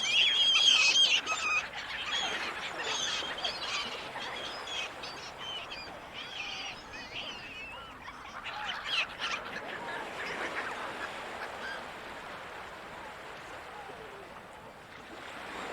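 A flock of seagulls calling: many overlapping harsh, squealing calls, loudest in the first couple of seconds, then thinning out and fading after about eleven seconds, over steady background noise.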